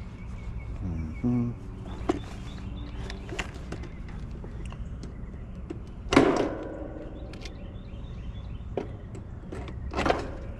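Knocks and clanks of metal parts being handled, the loudest about six seconds in with a brief ringing after it, over a steady low hum.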